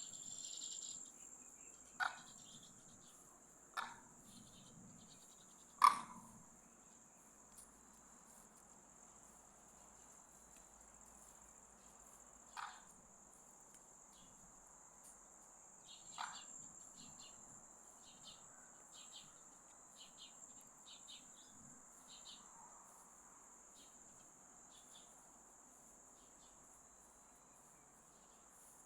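Crickets trilling steadily at a high pitch, faint. A few short sharp chirps or clicks break in, the loudest about six seconds in.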